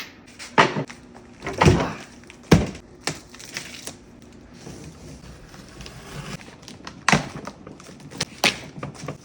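Thuds and knocks, with a little scraping, from a boxed table saw and its packed parts being handled and unpacked.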